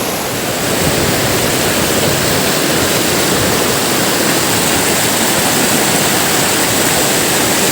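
Waterfall pouring down, a loud steady rush of falling water.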